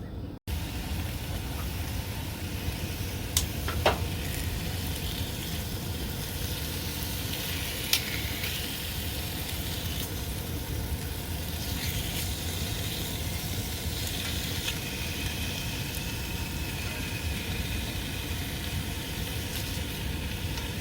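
Chicken tenders frying in a pan on a camp stove: a steady sizzle with a low rumble underneath, and a few light clicks.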